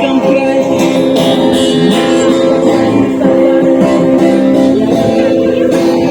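Amplified acoustic guitar played continuously, with sustained chords and sliding notes.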